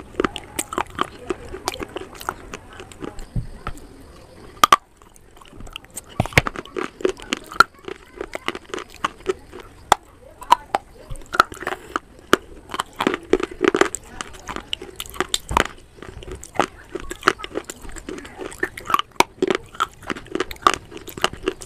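Close-miked chewing of crunchy white clay (slate and shale pieces) and clay paste: dense, irregular sharp crunches and crackles with wet mouth sounds, with one louder crack and a brief pause about five seconds in.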